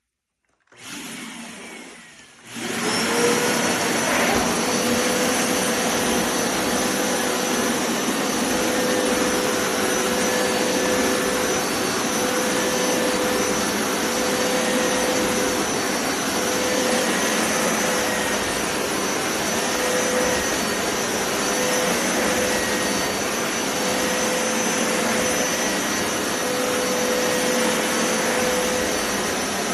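Hoover Powerscrub XL Pet upright carpet cleaner switched on. There is a quieter hum for a second or two, then its suction motor spins up with a short rising whine. It then runs loud and steady with a constant whine while cleaning carpet.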